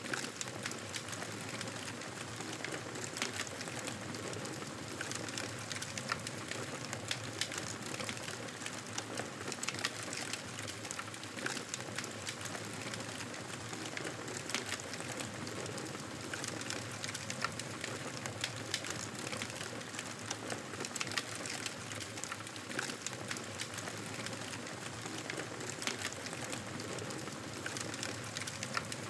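Campfire burning, a steady hiss dotted with frequent sharp crackles and pops.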